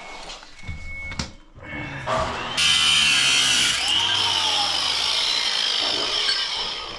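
A few sharp knocks, then a handheld power tool starts about two and a half seconds in and runs loudly and steadily until the end.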